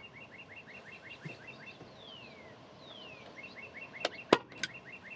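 A songbird singing: a fast run of short repeated chirps, about eight a second, with two downward-sliding whistles between the runs. About four seconds in come three sharp clicks of a hand staple gun.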